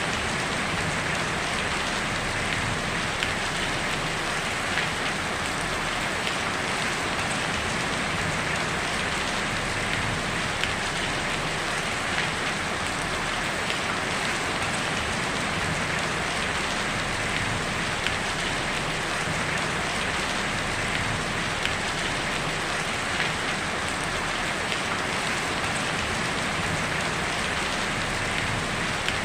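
Heavy rain falling steadily on a tin roof: an even hiss with scattered sharper drop taps.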